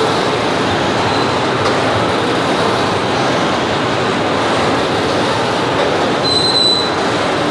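Freight wagons loaded with steel coils rolling past, a steady loud noise of steel wheels on rail. A faint high wheel squeal comes about a second in, and a stronger one rings for under a second near the end.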